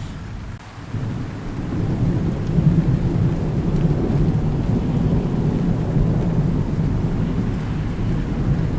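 Thunder rumbling over steady rain. After a brief lull about a second in, the low rumble builds and then holds heavily to the end.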